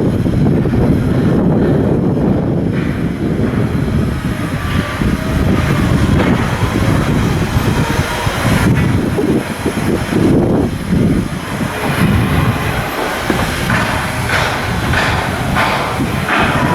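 Loud, steady mechanical rumble, with a run of sharp knocks at about two a second in the last few seconds.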